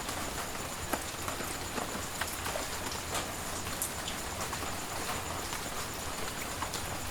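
Steady tropical rain falling, with many separate drips tapping on surfaces through the even hiss, and a faint steady high tone running underneath.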